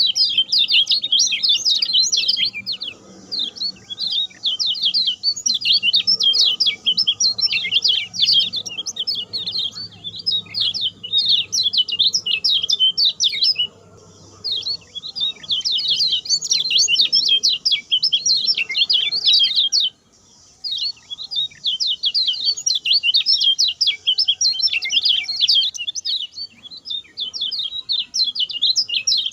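Kecial kuning (lemon-bellied white-eye) singing its fast, rattling grongsengan song: long runs of rapid high chirps that break off twice for a moment.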